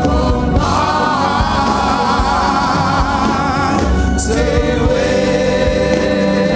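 Gospel choir singing a slow worship song with accompaniment, holding long notes with vibrato.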